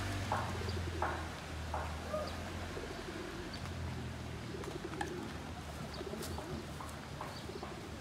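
Birds cooing: low, repeated coos, with a few soft knocks about once every two-thirds of a second in the first two seconds.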